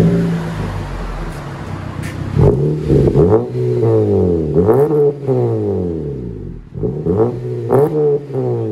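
2014 Honda Civic Si's 2.4-litre four-cylinder engine starting up through a muffler-deleted exhaust (2.5-inch pipe into a resonator and a 4-inch resonated tip), idling briefly, then blipped through several quick free revs, each rising and falling in pitch.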